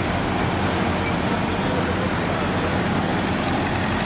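A heavy vehicle's engine running steadily at an even speed, with a low hum.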